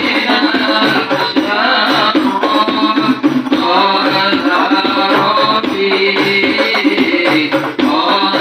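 Hadrah ensemble playing: rebana frame drums beating a steady rhythm under voices singing a devotional song.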